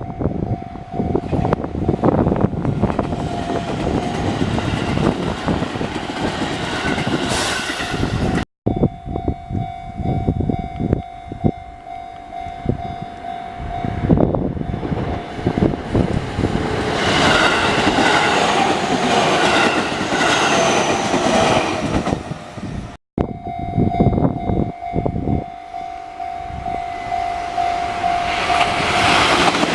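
Trains passing over a Japanese railway level crossing: the crossing's warning bell rings on one steady tone while wheels clatter over the rail joints, and a train horn sounds about seven seconds in. The sound drops out abruptly twice, near nine seconds and past twenty.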